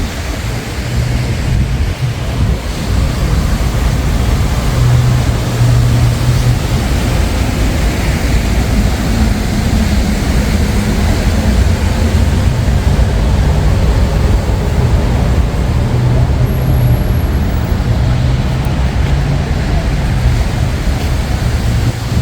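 Steady road traffic with a low rumble of passing vehicles, engine hums swelling and fading as they go by.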